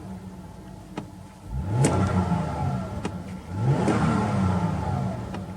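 Supercharged 2.5-litre V6 of a Toyota Mark X with an HKS aftermarket exhaust, idling and then blipped twice. Each rev rises quickly and falls back to idle.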